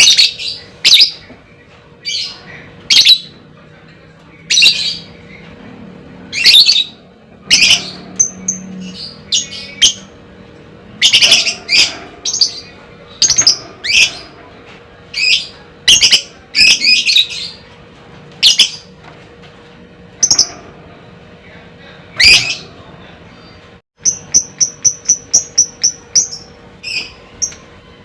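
Lovebird giving loud, shrill squawking calls, roughly one or two a second, then a quick run of about ten short chirps near the end.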